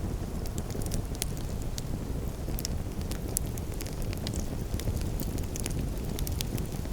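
Campfire crackling: scattered sharp pops and snaps, several a second, over a steady low rumble.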